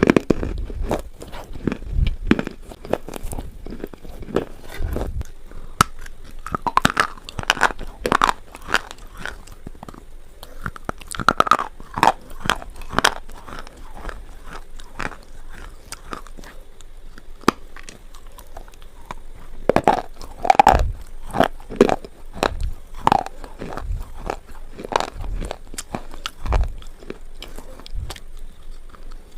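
A person biting and chewing slate pencils close to the microphone: irregular sharp crunches that come in clusters with short pauses between them.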